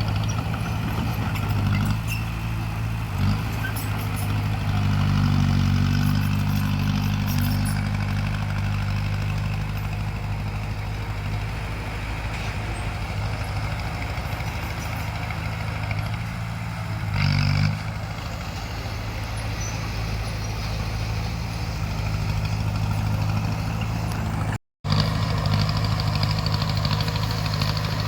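Crawler bulldozer's diesel engine running steadily, pulling harder and louder for a few seconds early on and again briefly past the middle. The sound cuts out for an instant near the end.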